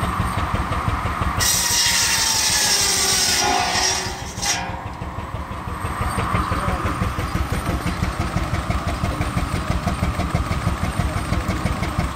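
Steam traction engine running the sawmill, its exhaust beating in a fast, steady rhythm. A loud rushing hiss starts about a second and a half in and cuts off after about three seconds.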